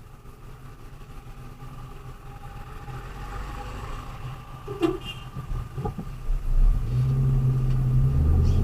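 Delivery vehicle's engine and road noise while driving, growing steadily louder, the low engine hum strengthening strongly in the last couple of seconds. A single short knock about five seconds in.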